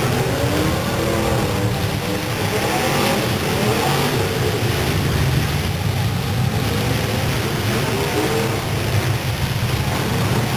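Engines of several demolition derby cars running and revving together, their pitches rising and falling over a steady low drone.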